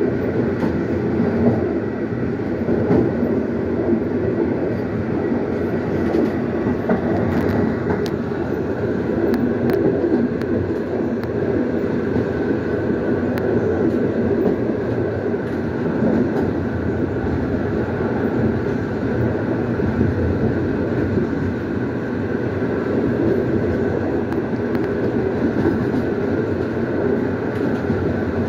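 Moving passenger train heard from inside at its rear: a steady running rumble of wheels on the rails with occasional light clicks.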